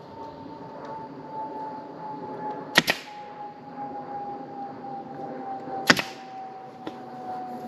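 Pneumatic air stapler firing twice, about three seconds apart, each shot a sharp double crack. A faint steady tone slowly falls in pitch underneath.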